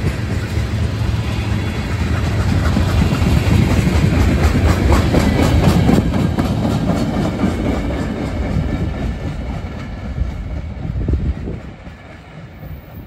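Freight train cars rolling past close by: steel wheels clacking rhythmically over rail joints under a heavy rumble. The sound drops away sharply about eleven seconds in as the end of the train passes and pulls away.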